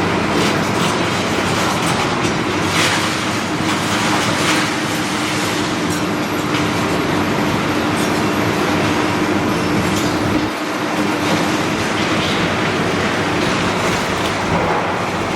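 Demolition machinery at work: a steady engine drone with scattered knocks and clattering of breaking debris. The low drone fades out about two thirds of the way through.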